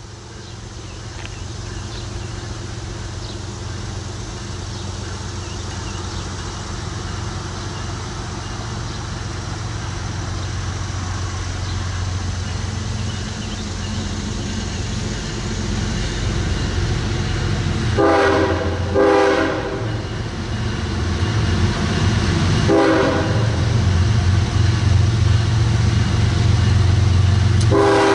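Diesel locomotive approaching, its low engine rumble growing steadily louder, with its multi-note air horn sounding a long blast about two-thirds of the way in, a short blast a few seconds later, and another blast starting near the end.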